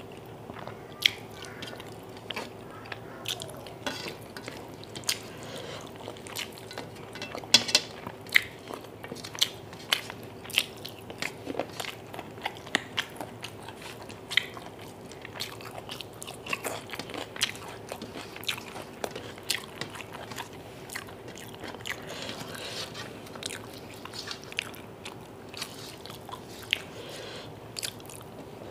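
Close-miked mukbang eating sounds: a person chewing spicy chicken kosha and rice with frequent, irregular wet smacks and sharp mouth clicks. A faint steady hum sits under it.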